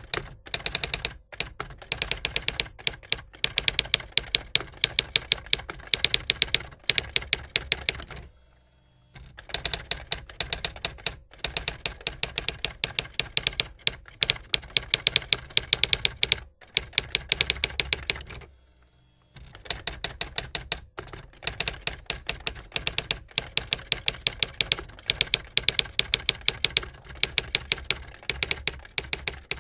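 Typing: fast runs of sharp key clicks, broken by two short pauses, one about eight seconds in and one about nineteen seconds in.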